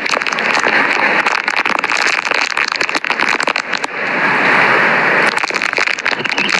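Rain and gusting hurricane wind hitting the microphone, with many crackling raindrop hits; the wind strengthens about four seconds in.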